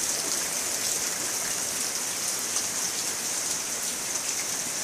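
Heavy rain coming down in buckets: a steady dense hiss with scattered drop ticks.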